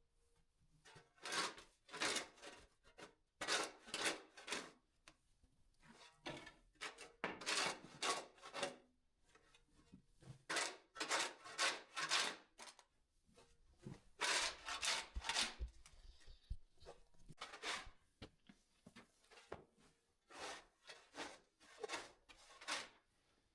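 Shovel blade scraping along a cement floor, scooping up packed chicken manure and sawdust, in repeated short strokes that come in runs with brief pauses between.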